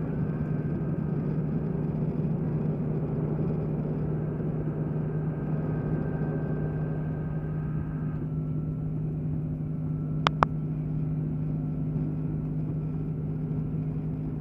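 Steady drone inside the cabin of an Airbus A330-300 airliner. A faint high whine in it stops about eight seconds in, and two brief clicks follow about two seconds later.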